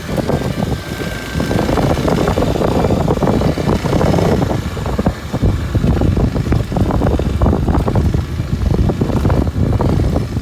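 Kawasaki Super Sherpa's 250 cc single-cylinder engine running while the bike is ridden along an unpaved forest road, mixed with irregular rumble and crackle from the tyres on the rough surface.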